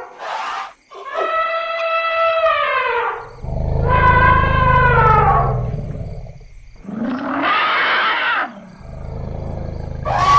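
Elephants trumpeting: a series of loud, high, brassy calls, several ending in a falling pitch, one harsher and noisier, with deep low rumbles underneath.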